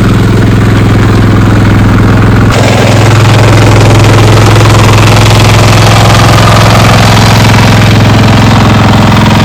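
An engine running steadily and loud, close by, with a deep even hum; its sound shifts abruptly about two and a half seconds in and then carries on unchanged.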